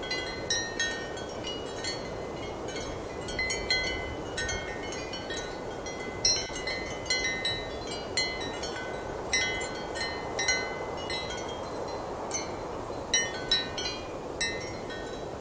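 Ceramic wind chimes clinking irregularly and often, short bright notes that ring only briefly, over a steady rush of strong wind.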